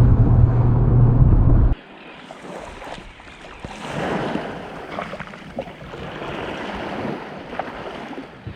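A loud, steady vehicle engine drone that cuts off abruptly a little under two seconds in, replaced by wind rushing over the microphone and water splashing and washing.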